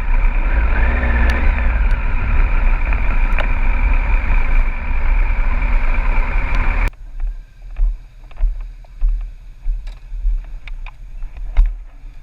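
Motorcycle running at steady speed, engine drone mixed with wind noise, which cuts off abruptly about seven seconds in. After that comes quieter low rumbling with scattered knocks and thumps.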